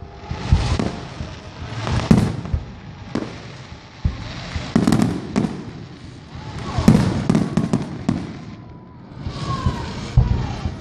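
Aerial fireworks shells bursting in a series of booms, one every second or two, each trailing off in a rumble. About seven seconds in comes a quick cluster of sharp cracks, and after a short lull another boom near the end.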